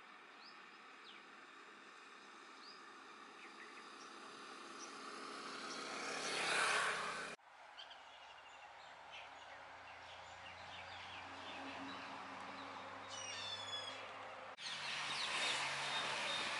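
Outdoor ambience: small birds chirping in short, scattered calls over a steady background noise. The noise swells into a loud rush about seven seconds in, then cuts off abruptly; after that a low steady hum sits under more chirps.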